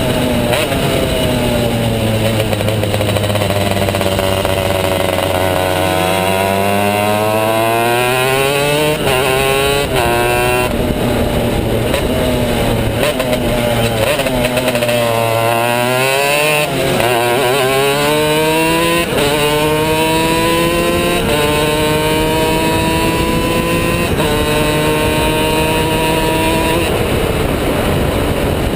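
Two-stroke racing kart engine at speed on track: the revs climb in steps through several upshifts, fall away around the middle as it slows for a corner, then climb through the gears again.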